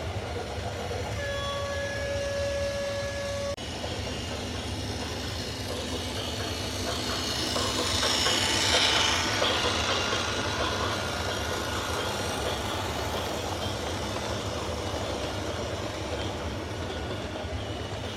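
A horn blows a steady note for about two seconds. After an abrupt cut, a heavy vehicle's rumble swells, peaks about halfway through and fades.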